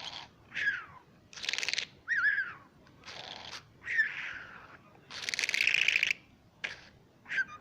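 Pet bird imitating human snoring: four breathy, hissing snore sounds, each about half a second to a second long, with short whistled chirps that fall in pitch between them.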